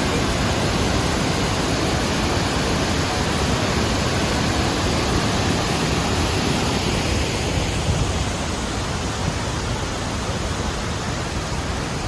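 Loud, steady rushing noise, heaviest in the low end, with no distinct events in it.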